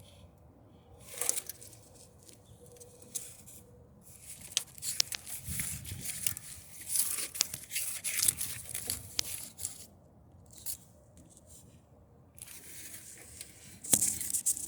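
Hand tools and parts being handled in repair work: irregular scraping, crinkling and sharp clicks in bursts. Quiet gaps come about a second in and again near two-thirds through, and a louder click comes near the end.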